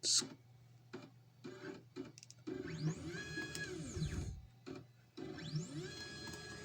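Stepper motors of a 3018 CNC machine jogging an axis: a few short jolts, then two longer moves, each with a whine that rises in pitch as the motor speeds up, holds, and falls as it slows to a stop.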